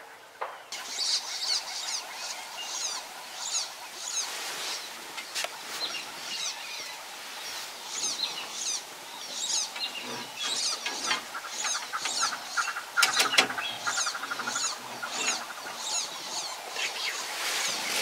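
Birds singing, a steady run of high, quick chirps repeating a few times a second. A short rattling call about two-thirds of the way through is the loudest moment.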